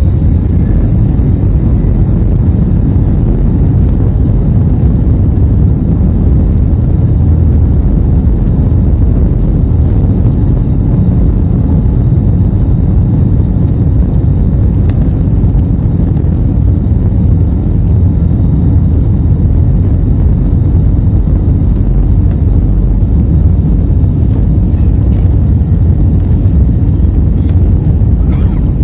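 Airliner cabin noise during a take-off flight: a loud, steady low rumble of the engines and rushing air, heard from inside the cabin.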